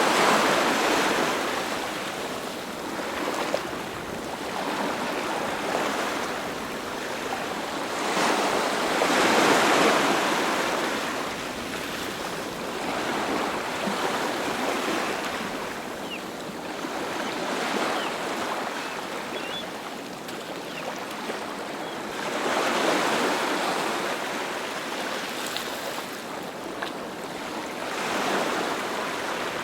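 Sea waves breaking and washing ashore, a continuous surf rush that swells and ebbs every several seconds, with stronger breakers about a third of the way in and again near the end.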